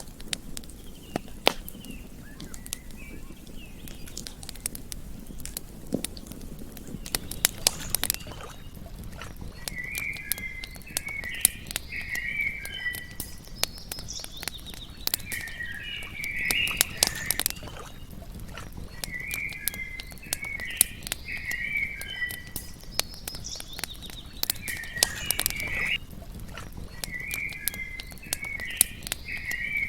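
Campfire crackling with frequent sharp pops over a low steady rush. From about ten seconds in, a bird repeats a short chirping song phrase every few seconds.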